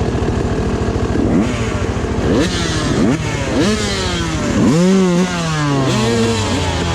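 Dirt bike engine idling and being revved in a series of quick throttle blips, the pitch rising and falling each time, then held at a steadier, slowly falling speed near the end.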